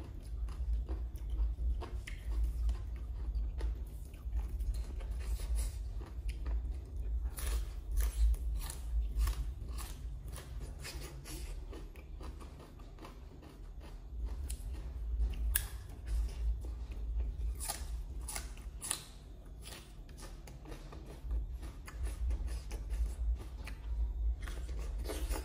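Close-up mouth sounds of chewing raw shredded green papaya salad and fresh greens: crisp, wet crunches that come in clusters, with quieter stretches between. A steady low hum runs underneath.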